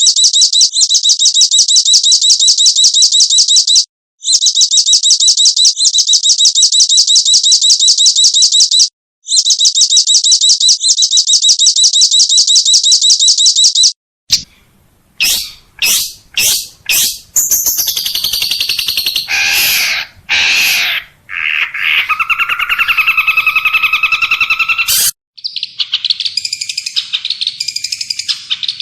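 Recorded cage-bird song used as training material for songbirds. A loud, very fast high trill repeats for about fourteen seconds with two brief breaks. It switches abruptly to a different bird's sharp calls, falling notes and whistled phrases, then to busy chattering near the end.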